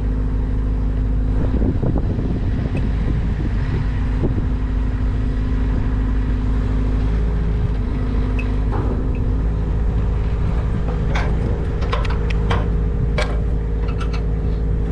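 An engine running steadily, with a few sharp knocks and clatters near the end.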